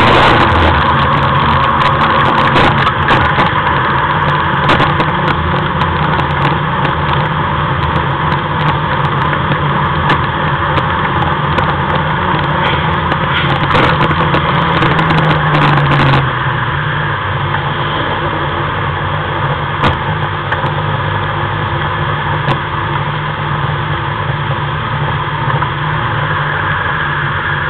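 Car engines idling steadily, with scattered clicks and crackles through the first half.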